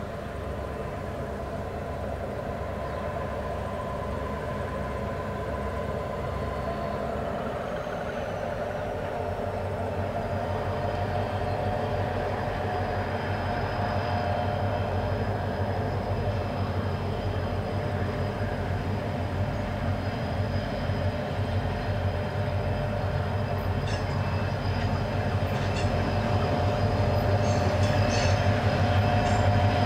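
Three Pacific National XR-class diesel-electric locomotives approaching at the head of a grain train, their engine drone growing steadily louder. Sharp wheel clicks on the rails come in during the last few seconds.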